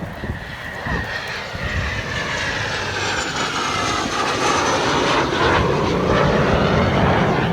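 Fixed-wing airplane flying past, its engine sound growing louder, with its pitch falling as it goes by.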